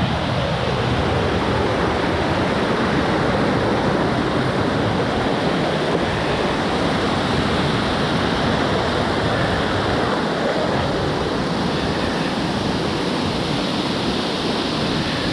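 Steady rush of running water, a river or waterfall.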